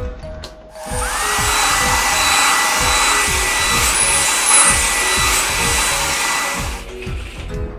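A car-wash machine sound effect: a loud, steady rushing hiss like an air blower or spray jet, starting about a second in with a whine that rises and then holds, and cutting off near the end. Background music with a steady beat plays throughout.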